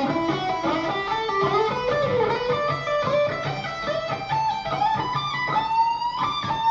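Electric guitar playing a fast single-note run slowly, climbing note by note up the neck and ending on a held high note near the end.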